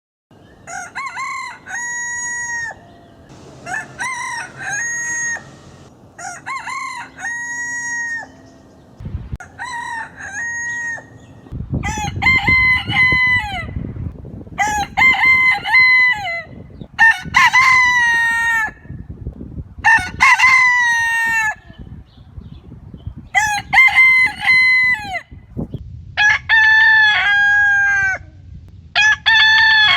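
Roosters crowing cock-a-doodle-doo, about a dozen crows one after another, each lasting one to two seconds with a pause of a second or so between. About a third of the way through the recording changes to louder crows over a low background rumble.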